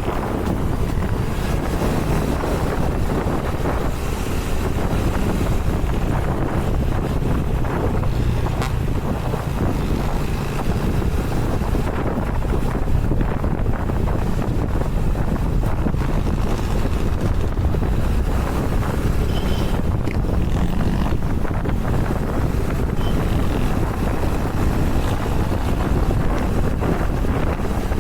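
Wind buffeting the microphone on a moving motorcycle, a steady low rush with the engine and road noise underneath.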